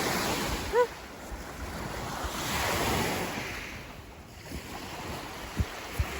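Wind rushing, swelling and fading twice, with a short vocal sound about a second in and two soft thumps near the end.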